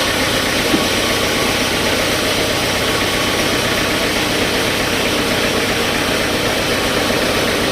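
Sawmill machinery running steadily: a constant engine-driven drone that holds the same pitch and loudness throughout.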